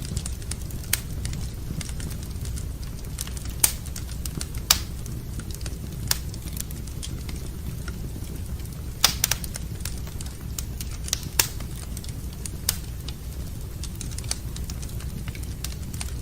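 Wood fire burning in a fireplace: a steady low rumble of flame with irregular sharp crackles and pops from the burning logs, a few louder snaps scattered through.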